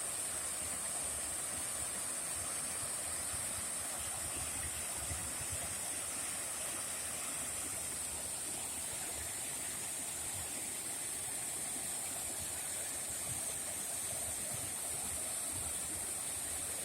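Waterfall and its stream rushing steadily, with a steady high hiss above the water.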